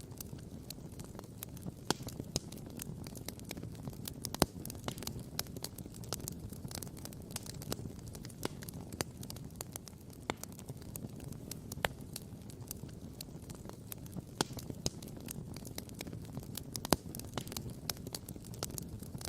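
Wood campfire crackling and popping, with sharp pops scattered irregularly over a steady low rush.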